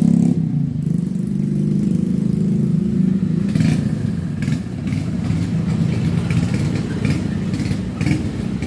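Small motorcycle engine running at low revs close by, its note wavering unevenly. Light clattering comes in over it in the second half.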